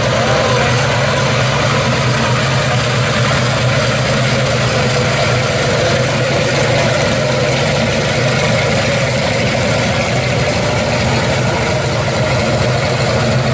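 1965 Chevrolet Chevelle Malibu's engine idling as the car rolls slowly past, a loud, steady, low exhaust note with no revving.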